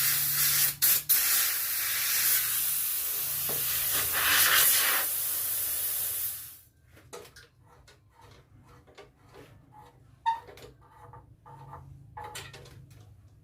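Pressurised gas or spray hissing out in a steady jet, briefly interrupted twice, then cut off sharply about six and a half seconds in. Faint small clicks and handling noises follow.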